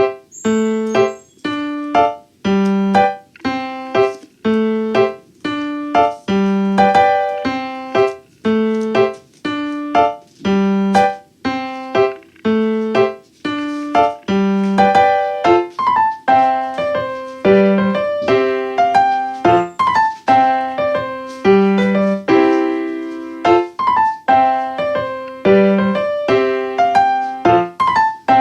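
Background piano music: a calm, evenly paced melody with a repeating bass note about once a second.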